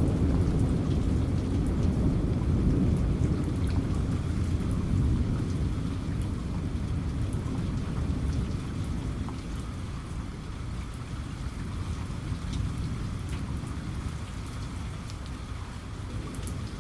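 Rain falling steadily with a low thunder rumble dying away, the whole growing gradually quieter. Faint scattered raindrop ticks sound above the rain.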